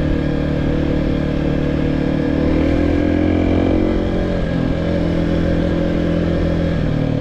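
2023 Kawasaki KLX 300 dual-sport's single-cylinder four-stroke engine running under way on a dirt trail. It revs up a little about two and a half seconds in and eases back off around four seconds.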